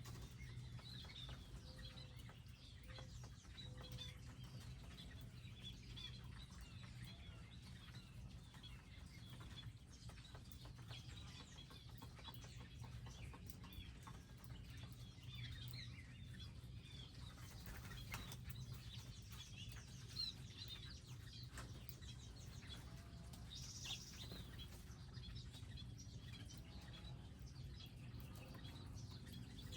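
Faint, scattered chirps and calls of small wild birds at garden feeders, over a low steady hum.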